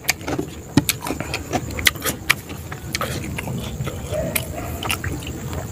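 Eating sounds: irregular wet clicks and smacks of a mouth chewing chicken and rice, with fingers working the rice. A steady low rumble runs underneath.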